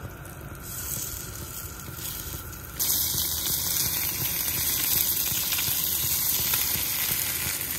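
Walleye and pike cheeks searing in very hot olive oil and butter in a non-stick pan, a steady sizzle that jumps suddenly much louder about three seconds in.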